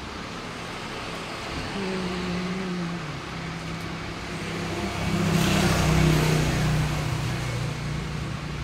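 A motor vehicle's engine running with a steady hum whose pitch shifts a few times, growing louder to a peak about six seconds in as it passes, with a brief rush of hiss at the peak.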